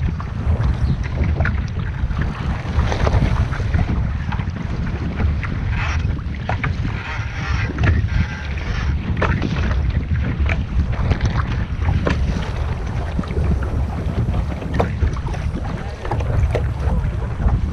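Wind buffeting the microphone with a steady low rumble, over water rushing and splashing against a sailing boat's hull under way.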